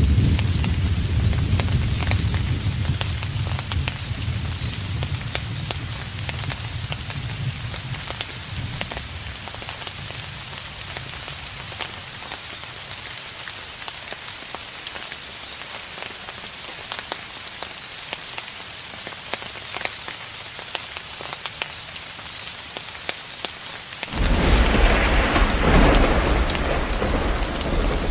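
Steady rain falling, with distant thunder. A deep rumble dies away over the first several seconds, and a new roll of thunder breaks in suddenly near the end.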